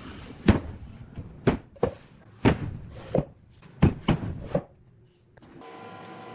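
Wood being struck: about eight sharp knocks at uneven spacing, like blows on a workpiece. Near the end a steady motor hum starts.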